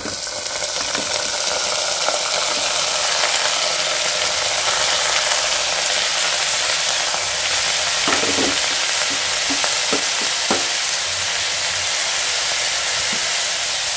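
Chopped bamboo shoots sizzling in hot oil with fried onions in a small pressure cooker on a gas stove. The hiss swells over the first couple of seconds as the shoots go in, then holds steady, with a few light knocks later on.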